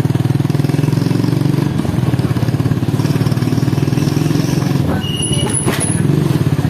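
Motorcycle engine running steadily with a fast, even pulse while riding. Near the end there are brief high-pitched tones.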